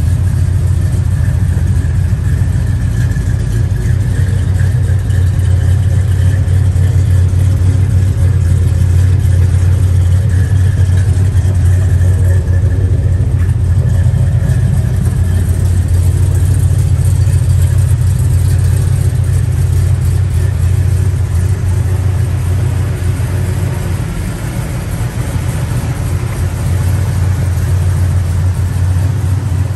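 A 1972 Chevrolet El Camino SS's 454 big-block V8 idling steadily with a deep, even rumble.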